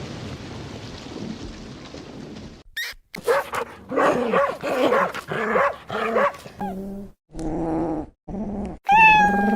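A steady rumbling noise, then a dog barking in a quick run of short barks, followed by a few drawn-out whining calls that fall in pitch.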